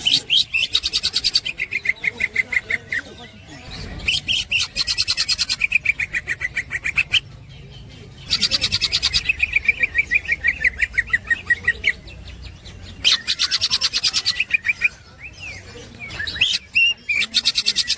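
Green leafbird (cucak ijo) singing its fast chattering 'ngekek' song: about five bursts of rapid, evenly repeated high notes, each lasting two to three seconds, with short pauses between them.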